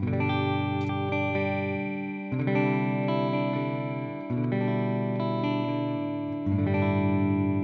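Fender Jazzmaster Modern Player electric guitar with humbuckers, played with a clean tone: four chords, each strummed and left to ring, changing about every two seconds.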